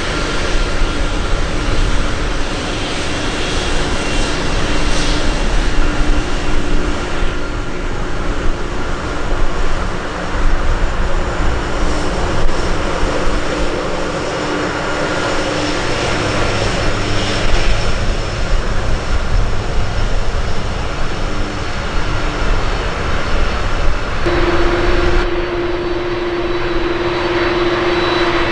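Jet airliner engines running: a loud, steady roar with a held whining tone. About 24 seconds in the tone steps higher and the sound changes abruptly.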